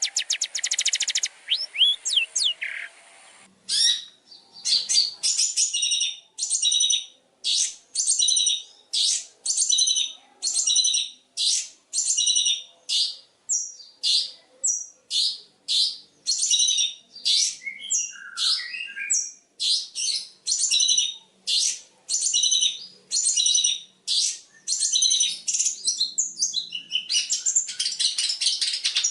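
Long-tailed shrike (cendet) singing a varied song full of mimicked phrases. It opens with a rapid twittering run, then gives a long series of sharp, high repeated notes at about two a second, and breaks into dense chatter near the end.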